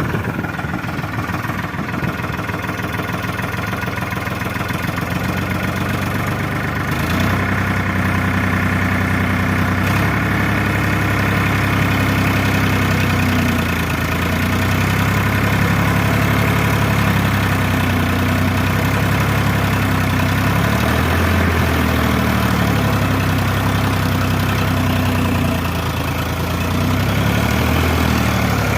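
Powertrac Euro 50 tractor's diesel engine running steadily. Its speed picks up about a quarter of the way in, then drops and rises again a couple of times near the end.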